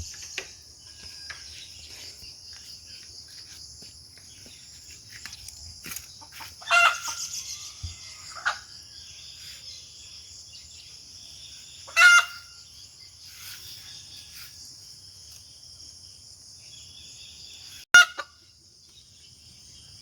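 Rooster crowing three times, roughly five seconds apart, with a weaker call between the first two. Faint scattered chirps and a steady high-pitched hiss run underneath.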